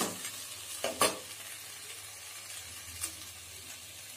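Mint leaves, onions, tomatoes and green chillies sautéing in oil in a pan with a steady sizzle. A spoon stirs and scrapes the pan a few times, the loudest stroke about a second in.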